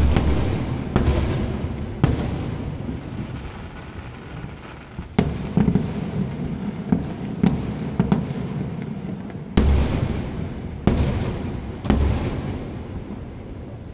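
Fireworks going off in a string of loud, sharp bangs at uneven intervals, each with a booming tail that dies away, and smaller pops in between.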